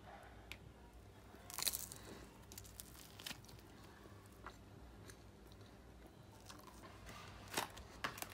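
Close-up eating sounds: crunchy bites and chewing of cheesy garlic bread, a scatter of sharp crunches, the loudest about a second and a half in and two more near the end.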